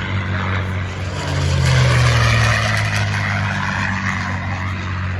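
Piston engine drone of a World War II fighter flying over, a steady low hum that swells louder about two seconds in and then eases off as the plane passes.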